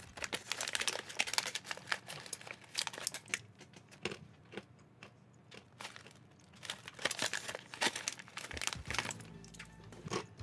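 Dry roasted smoked-paprika peas crunching and crackling as they are chewed, in two spells with a short lull in between. The peas are very hard.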